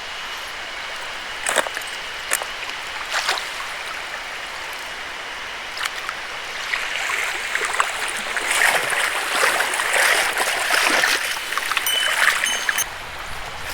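Mountain stream running steadily. A few sharp clicks come in the first few seconds, then a louder spell of irregular rustling and crunching runs from about halfway in until near the end.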